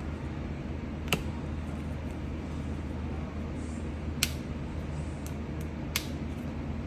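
A steady low hum with three sharp clicks or taps, about one, four and six seconds in, from small objects being handled while flour is being seasoned.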